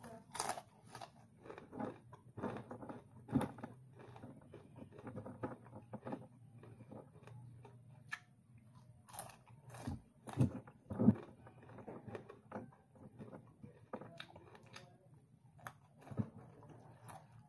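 Close-up chewing and crunching of crispy fried dried anchovies (dilis) with rice, eaten by hand, in irregular bites and mouth clicks, with two louder crunches a little after the middle.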